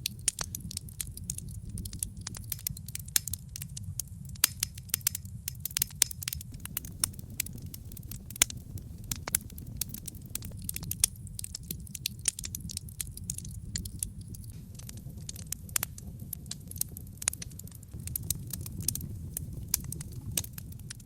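Wood logs burning in a fireplace, crackling constantly with irregular sharp pops over a steady low rumble of the flames.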